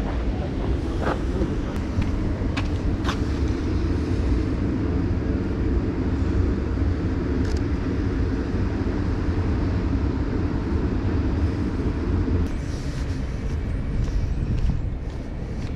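Steady low rumble of a running vehicle, with a few sharp clicks in the first few seconds. The rumble drops away about twelve seconds in, leaving a brief hiss.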